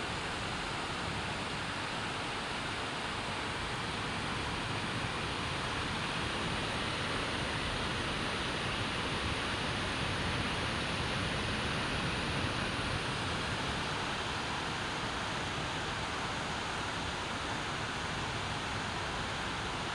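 Steady monsoon rain falling, an even hiss with no thunder and no break in it.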